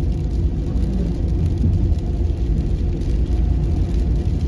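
Steady low rumble of a car driving at speed, heard from inside the cabin: tyre and engine noise on a treated, grooved road surface.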